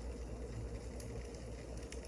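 Wood fire crackling, with scattered sharp pops over a steady low rumble and hiss.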